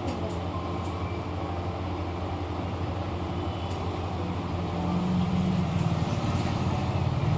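A steady low mechanical rumble like a motor or engine running, growing louder about five seconds in.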